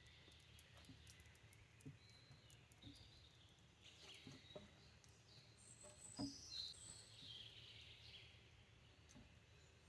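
Faint birdsong, several birds chirping and calling. A few soft knocks come through, the most distinct about six seconds in.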